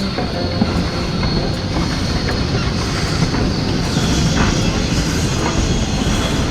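A passenger train running on the rails: a steady rumble with the clatter of its wheels.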